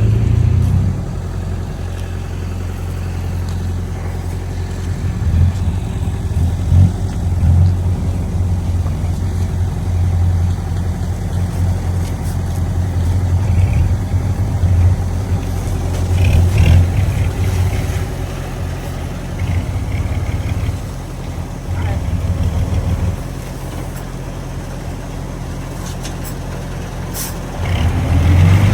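Heavy diesel engine of earthmoving machinery running, its low drone swelling and easing with the load. Near the end it revs up, rising in pitch and getting louder.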